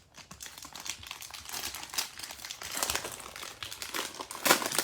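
Cellophane wrapper of a trading card pack crinkling as it is torn open and handled, in irregular crackles with a louder burst near the end.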